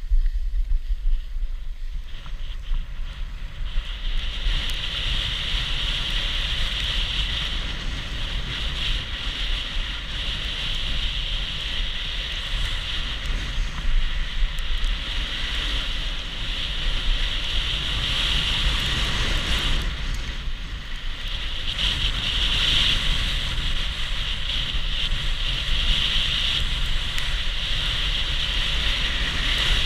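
Wind rushing over the microphone on a downhill run on snow, with a steady hiss of snow sliding under the skis. A high hiss comes in about four seconds in and carries on.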